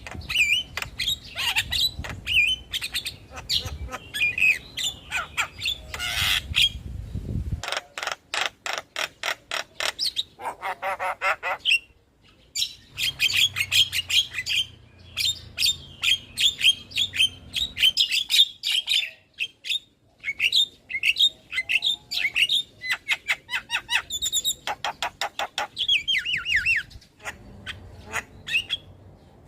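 Javan myna (jalak kebo) singing loudly: a fast, jumbled chatter of harsh squawks, whistles and rapid runs of clicking, repeated notes. The song comes in bursts with brief breaks between them.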